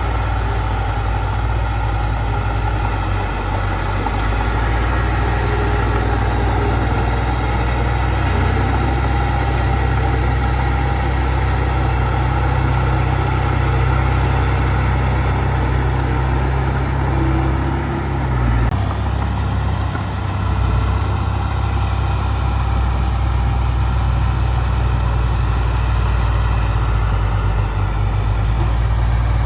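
Heavy diesel engine of earthmoving machinery running steadily, a deep continuous drone, with an abrupt change in its sound about two-thirds of the way through.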